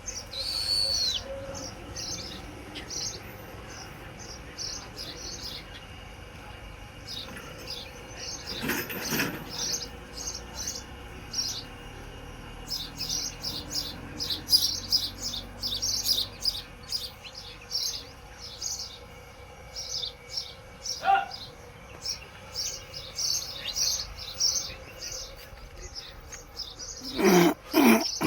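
Small birds chirping: a run of short, high chirps that comes in clusters, with a few louder, harsher calls about nine seconds in, about twenty-one seconds in and near the end.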